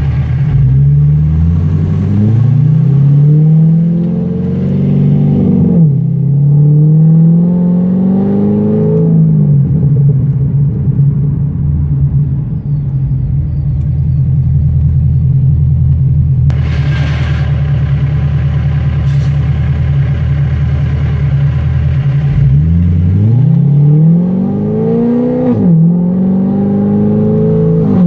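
Straight-piped 6.2-litre LS3 V8 of a C6 Corvette, with long-tube headers and an off-road X-pipe, at full throttle. The revs climb, fall at an upshift about six seconds in, and climb again until about nine seconds. It then holds a steady drone for about twelve seconds, then pulls hard again with another upshift near the end.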